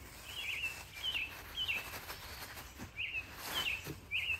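A songbird chirping: a series of short, quick chirps, about six in all, with a pause in the middle, over a steady low outdoor background noise.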